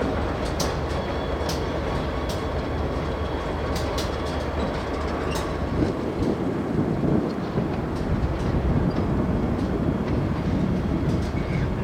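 Diesel freight locomotives running light (no cars) at low speed: a steady engine drone with scattered sharp clicks of the wheels over rail joints, and a heavier rumble building about halfway through.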